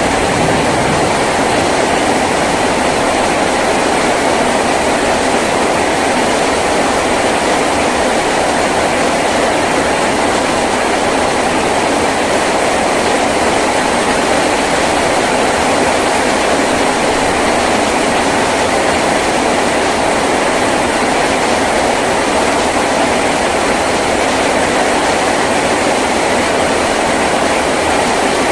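Heavy rain falling on a tin roof: a loud, steady, even rush that never lets up.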